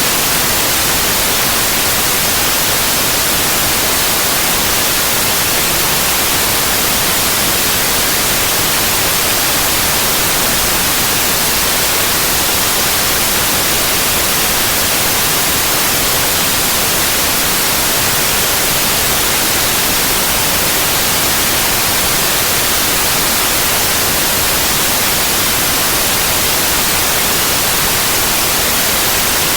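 Steady white noise: an even, unchanging hiss across the whole range, strongest in the highs.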